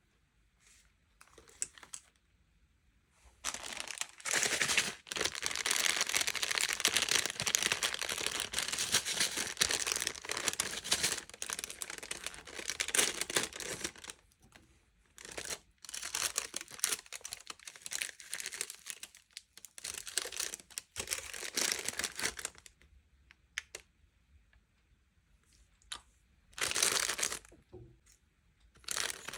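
Sweets or toy packaging crinkling and tearing as it is unwrapped: a long dense stretch, then shorter bursts with pauses, and one brief burst near the end.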